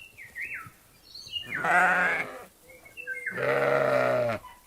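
Sheep bleating: two long, wavering bleats, the second lower and deeper, with a few short high chirps between them.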